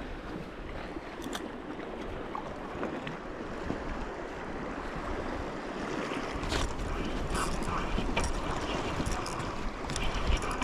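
Wind and choppy sea water lapping against a kayak hull, with wind buffeting the microphone as a low rumble that strengthens about halfway through. Scattered light clicks and knocks come in the second half.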